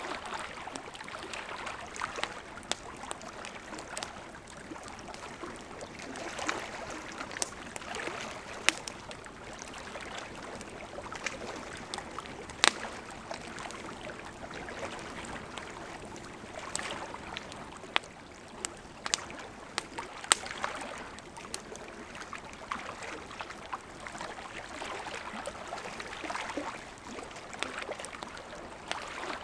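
Burning wood fire crackling, with irregular sharp pops and snaps over a steady soft rushing of the flames; a few louder pops stand out, around 9, 13 and 20 seconds in.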